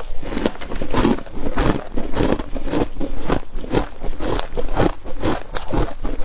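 Close-up crunching and chewing of flaky freezer frost, a steady run of crisp crunches about two or three a second.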